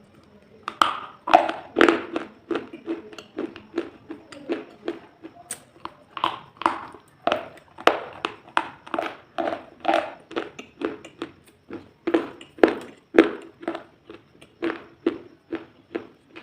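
A steady run of short, crisp crunches close to the microphone, about two or three a second.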